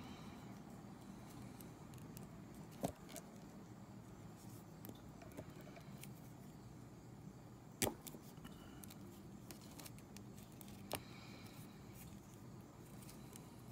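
Faint clicks and taps of a plastic action figure being handled and posed, with three sharper clicks about three, eight and eleven seconds in.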